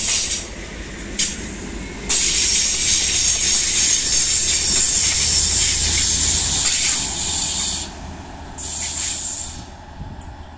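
Train running past on the rails: a steady hissing rush of wheel-on-rail noise over a low rumble, loudest from about two seconds in until near eight seconds, then dropping and coming back in short bursts.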